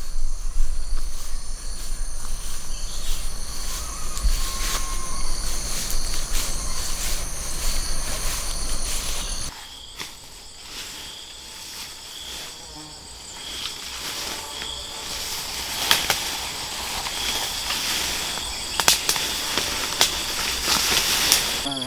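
Chorus of insects such as cicadas and crickets, steady high-pitched chirring in several tones. About nine and a half seconds in it changes abruptly, and a few sharp clicks come in the second half.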